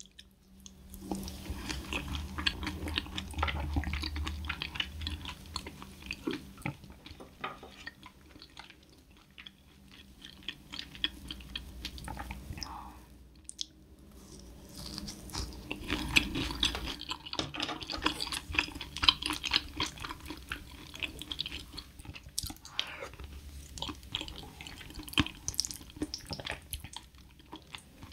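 Close-miked wet chewing and mouth sounds of someone eating bites wrapped in gamtae seaweed, in several waves of dense small clicks and squelches with short pauses between them.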